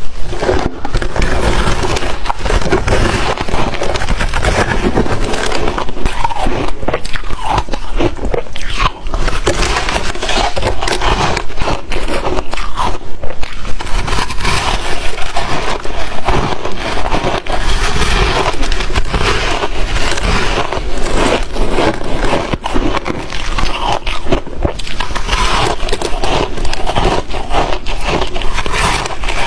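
Crunchy ice being bitten and chewed close to the microphone: continuous crunching full of quick cracks.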